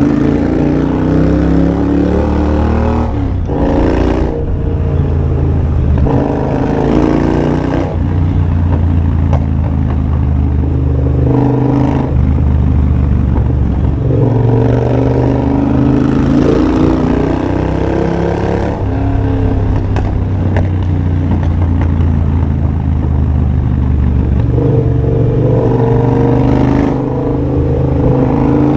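2023 Triumph Bobber's 1200 cc parallel-twin engine running through a de-catted X-pipe and Motone Shorty exhaust while riding. Revs rise and fall through several gear changes, with the loud exhaust note running on in between.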